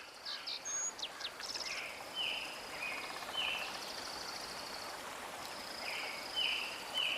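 Several birds chirping and calling over a steady background hiss. A short call note repeats about every half second in two runs, mixed with higher chirps and a trill.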